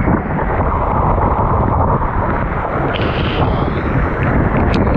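Steady, loud rushing of a monsoon waterfall, mixed with wind buffeting the action camera's microphone.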